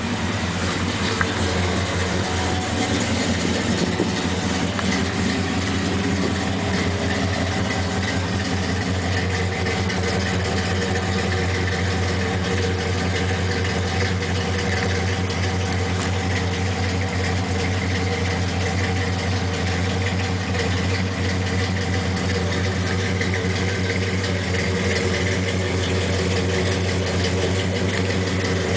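1970 Chevrolet C-10's 350 small-block V8 idling steadily.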